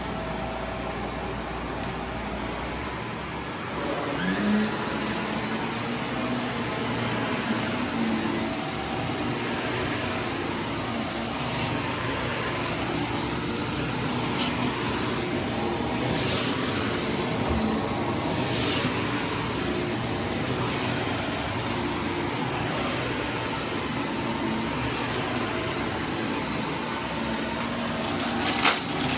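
Vacuum cleaner running steadily, its motor and airflow giving a constant noise with a faint hum. Near the end, a burst of sharp clicking and rattling as debris from the mess test is sucked up.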